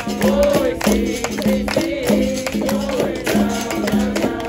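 Live capoeira roda music: a berimbau plays a steady repeating rhythm with its caxixi shaker, alongside pandeiro strokes and a voice singing.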